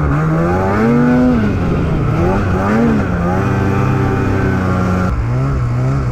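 Snowmobile engine running under load, its pitch rising and falling repeatedly as the throttle is worked riding through snow, with an abrupt change about five seconds in.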